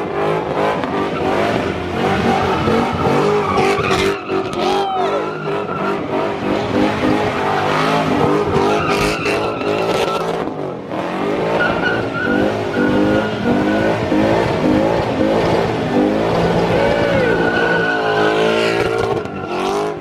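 Ford Mustang doing a burnout: its engine revs up and down over and over while the spinning rear tyres squeal and skid.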